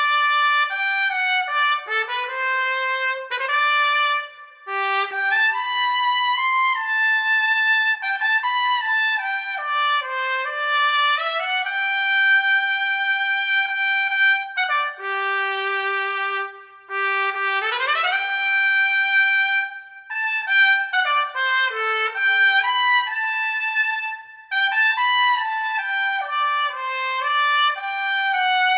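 Unaccompanied solo trumpet playing a flowing melodic line of many notes, with brief breath pauses between phrases. About two-thirds of the way through it slides sharply upward from a low note to a high one.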